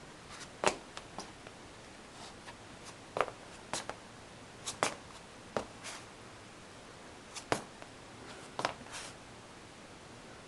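A series of sharp clicks and light knocks at irregular intervals, about a dozen over ten seconds, some in quick pairs, over a steady low hiss.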